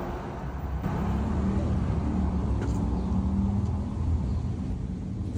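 Low, steady rumble of a motor vehicle's engine running.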